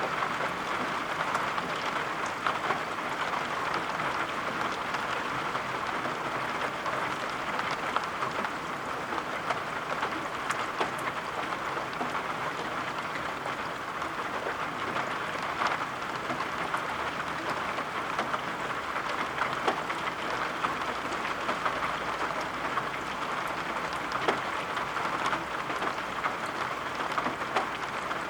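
Steady rain falling: an even hiss with scattered light, sharp taps of drops.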